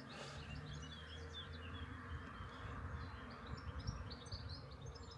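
Faint outdoor birdsong: many short chirps and twitters, over a low steady rumble.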